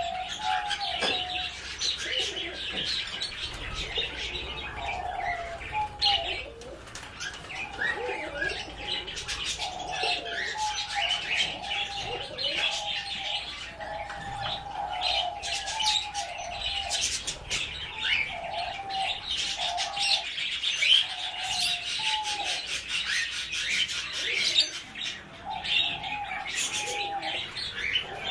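A group of pet birds chirping continuously, high short chirps over a repeated lower warbling call, with many sharp clicks and flutters mixed in.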